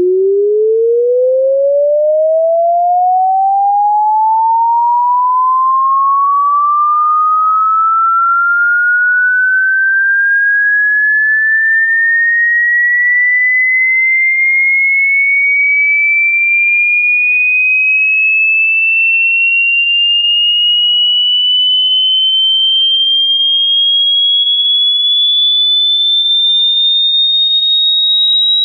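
A single electronic pure tone sweeping steadily upward in pitch at constant loudness, climbing quickly at first from a low hum and then more slowly into a high, piercing whine: a test-tone frequency sweep.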